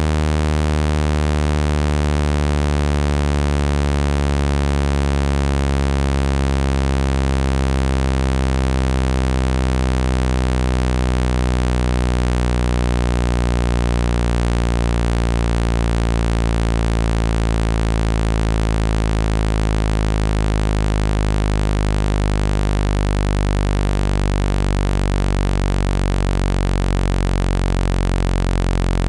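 Synthetic low-pitched speaker-cleaning tone, a steady buzzing hum with many overtones, played to shake trapped water out of a wet phone speaker.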